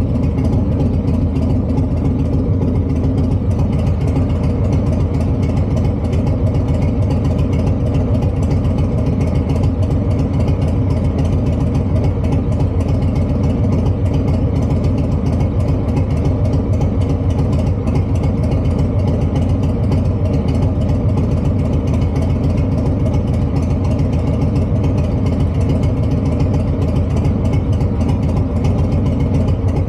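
Harley-Davidson V-twin engine idling steadily, a deep even rumble with no revs.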